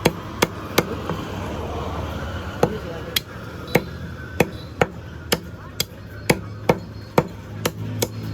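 A cleaver chopping through chicken on a chopping block: about fifteen sharp strikes, roughly two a second, with a short pause after the first few. A steady low background din runs underneath.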